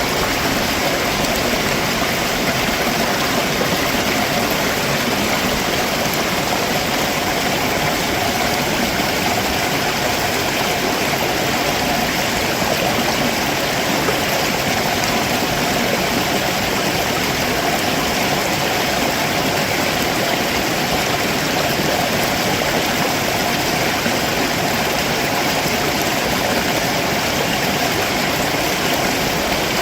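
Stream water rushing steadily over rocks, a constant even rush with no breaks.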